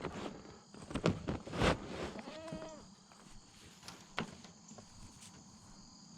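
A farm animal bleats once, briefly, about two and a half seconds in. Loud rustling comes about a second in and again just before, and there is a sharp click near the four-second mark.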